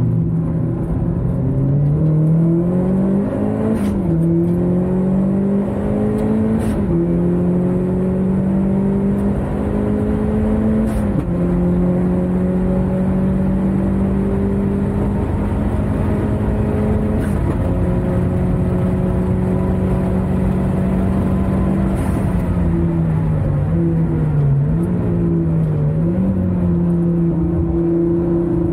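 Track-prepared car's engine heard from inside the cabin at speed on a circuit, pulling through the gears with sharp pitch drops at upshifts about 4, 7, 11 and 17 seconds in. Later the revs fall under braking, with short rises on the downshifts around 23 to 25 seconds in, before the engine climbs again.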